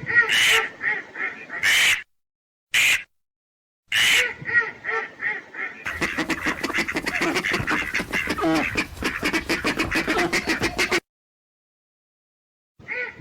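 Ducks quacking in runs of short, repeated calls, broken by abrupt cuts to dead silence. From about six seconds in, a denser stretch of rapid calls lasts about five seconds before cutting off suddenly.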